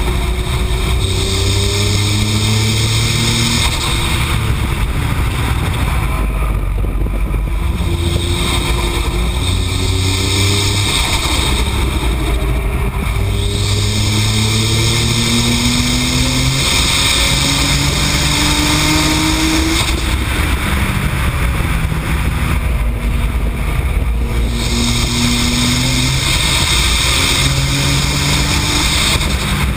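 AAM-800+ tuned Nissan GT-R's twin-turbo V6 under hard acceleration on track, its pitch climbing and dropping back at each upshift, with a few lifts off the throttle for corners. Steady wind and road noise run underneath.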